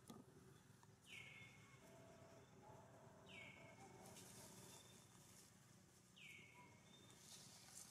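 Faint bird call, repeated: a short clear whistle sliding down in pitch, three times, two to three seconds apart, over a faint outdoor hiss.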